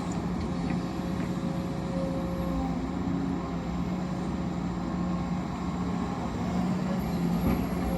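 Heavy machinery engine running steadily, with a constant low hum.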